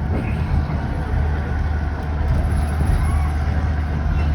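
Passenger train running, heard from aboard: a steady low rumble with a constant hum.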